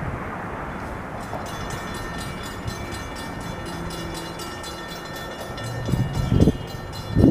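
SEPTA Silverliner V electric train running into the station. From about a second in there is a rapid run of fine clicking with faint steady tones, and heavy thumps come near the end.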